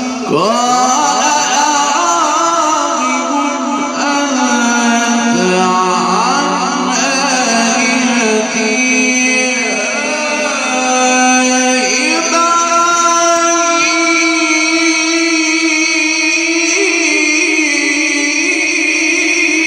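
A male Qur'an reciter's voice in a long, ornamented melodic passage of mujawwad recitation. The pitch is held and wavers through drawn-out notes, shifting to new held notes about every two to four seconds.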